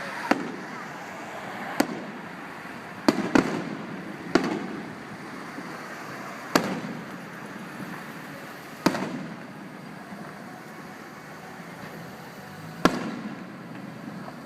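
Aerial fireworks bursting, heard through a phone's microphone: about eight sharp bangs at uneven intervals, two close together about three seconds in, each trailing off into a rumbling echo, with a long gap before the last one near the end.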